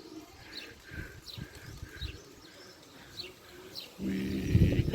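Birds chirping in short, repeated calls. About four seconds in, a louder low rumble with a steady hum sets in.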